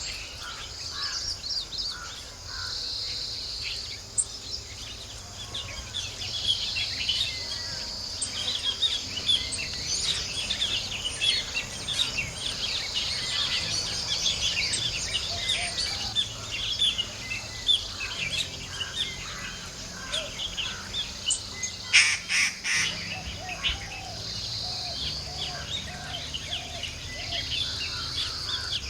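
Many small birds chirping and calling over a steady high insect buzz that swells and fades. About 22 seconds in there is a short burst of sharp clicks, the loudest sound.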